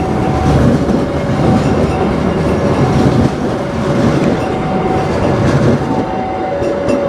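A train running over the rails: a steady rumble of wheels and cars, with short high squeals from the wheels coming and going every second or so.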